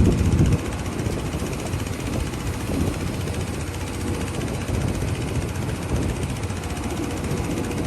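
Diesel engine of heavy earthmoving machinery running steadily with a low rumble, a little louder for the first half second.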